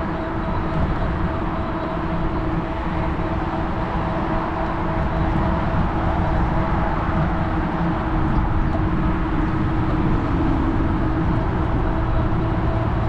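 Steady riding noise of a fat-tire electric bike under way: low wind rumble on the handlebar-mounted microphone and tyre hiss, with a steady whine held throughout.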